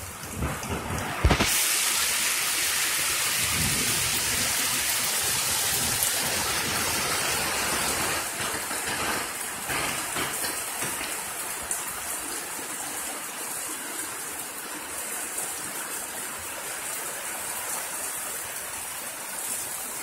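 Heavy rain falling in a steady, loud hiss. It jumps louder about a second in and eases a little toward the end, with a few dull thumps in the first second.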